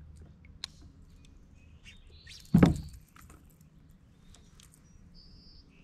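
Small birds chirping faintly in short high notes, with one loud, short thump about halfway through.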